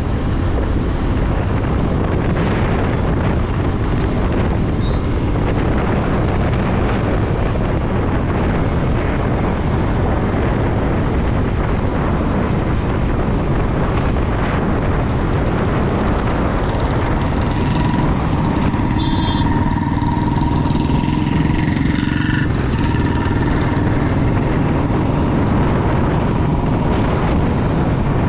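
Motorcycle on the move, heard as a steady rush of wind and road noise over the engine on the rider's microphone. For several seconds past the middle, a steady high tone and a higher whine join in.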